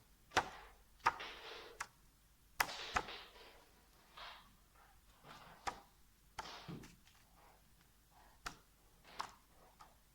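Small objects being handled: a scattered series of light clicks, taps and knocks, some followed by brief rustling, at irregular intervals.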